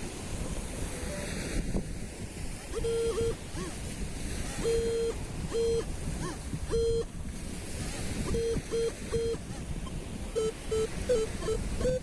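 Metal detector's audio tone beeping at one steady mid pitch, a string of short and longer beeps at uneven spacing that come quicker near the end, as the coil passes over a metal target. Wind and surf noise run underneath.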